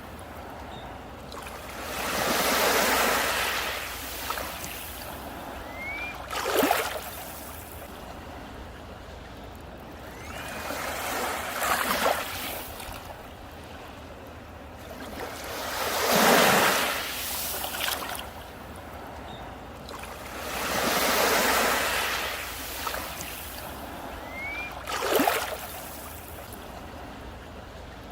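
Sea waves breaking and washing up on a beach, swelling and fading every four to five seconds. Two sharper, shorter crashes come about a quarter of the way in and near the end.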